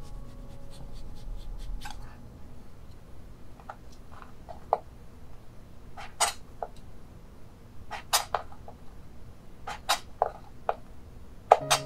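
Kitchen knife working lemon peel on a wooden cutting board: faint light scraping ticks at first, then irregular sharp knocks of the blade striking the board as the peel is cut, from about five seconds in.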